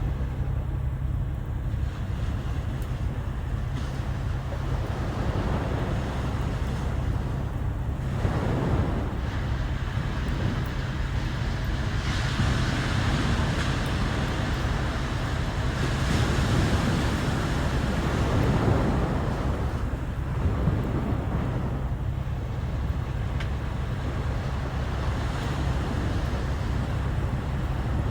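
Sea waves washing ashore, swelling and falling back several times, over a steady low rumble of wind on the microphone.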